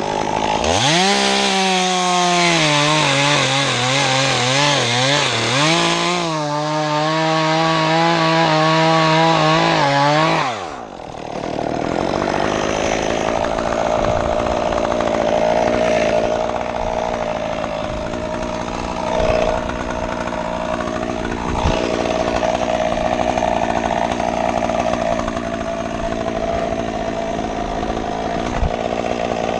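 Stihl chainsaw revving high as it cuts through limbs, its pitch sagging and recovering under load, for about ten seconds before it drops off. After that a steadier, lower engine drone carries on.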